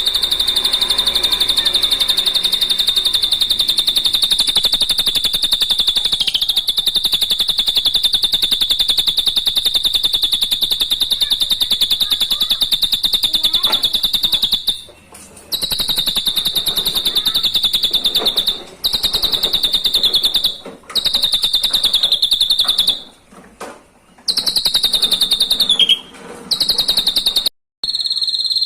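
A high, very rapid buzzing trill held at one steady pitch from a bird-song training (masteran) recording. It runs unbroken for about fifteen seconds, then stops and restarts several times with brief silences.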